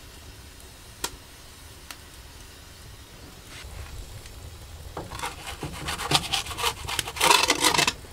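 A single sharp click about a second in, then from about five seconds in a few seconds of dense scraping and rubbing strokes that build up and are loudest near the end.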